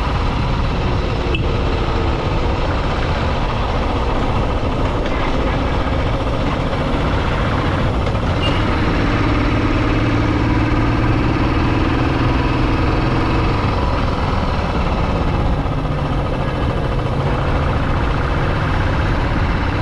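Motorcycle on the move: steady, loud engine and road noise, with a stronger engine tone standing out for a few seconds in the middle.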